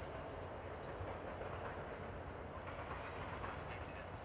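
A train rolling on the rails: a steady low rumble with a light clatter of wheels over the track.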